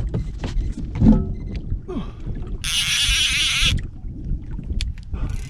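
Knocks and thumps of gear and footing in a fishing boat, then about a second of a baitcasting reel's drag buzzing as line is pulled off against a bottom snag.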